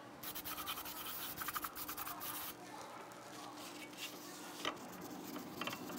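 Metal scraping and rubbing as a new rear brake rotor is slid onto the wheel hub over the parking brake shoes, busiest in the first couple of seconds, followed by a couple of light clicks near the end.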